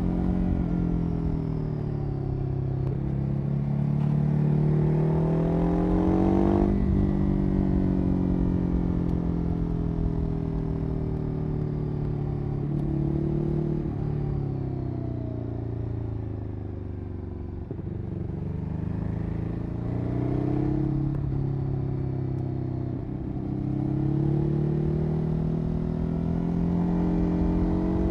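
Ducati Hyperstrada 821's Testastretta L-twin engine running through its exhaust under way. The revs climb, then drop sharply about seven seconds in as the throttle closes. They sink slowly for several seconds, then rise again twice near the end.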